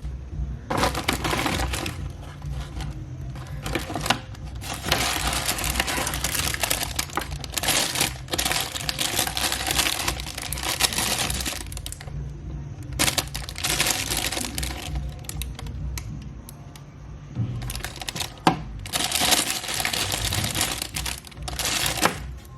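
Packaging being handled and torn open during a gift unboxing: rustling and crinkling in several bursts of a few seconds each, with sharp clicks.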